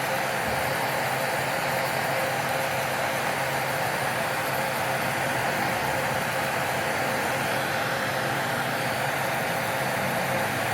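Electric nail drill running steadily, a constant motor whine with a hiss of filing over it.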